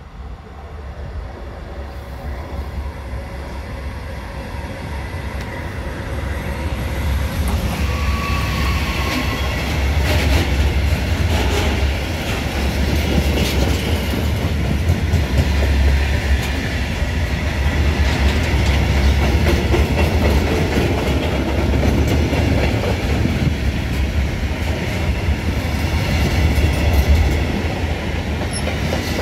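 Freight train of mixed wagons hauled by an electric locomotive, approaching and then rolling past close by. The rumble grows louder over the first ten seconds, then holds steady as the wagons go by with wheels clattering over the rail joints, and a brief wheel squeal comes about eight seconds in.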